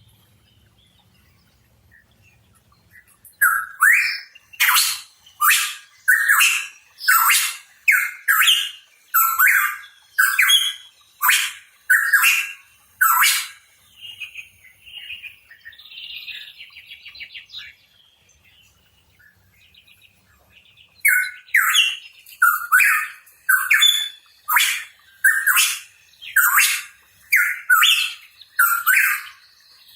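A pitohui calling: a long run of loud, short, harsh notes at about one and a half a second, a softer twittering, a pause, then a second run of the same notes.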